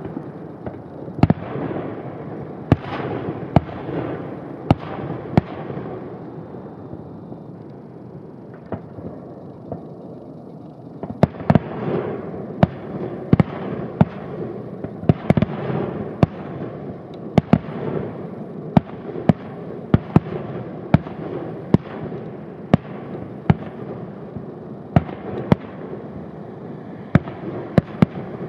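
Fireworks display: aerial shells bursting in an irregular series of sharp bangs, often one or two a second, over a steady rumble between them. The bangs thin out for a few seconds about a quarter of the way through, then come thick again.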